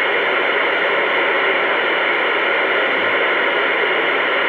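Two-way radio speaker giving out steady, loud static hiss between transmissions, an open channel with no voice on it.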